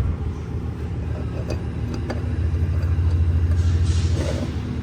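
A steady low rumble of running machinery that swells from about halfway in, with a few light clicks of parts being handled and a brief hiss near the end.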